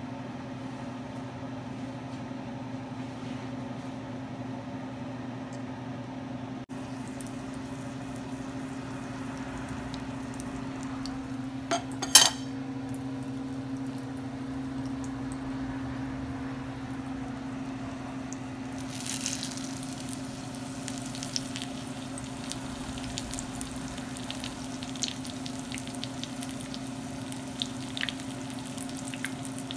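Egg-coated eggplant frying in hot oil in a nonstick pan: a crackling sizzle with scattered pops that starts about two-thirds of the way through. A steady low hum runs underneath, and there is one sharp clink around the middle.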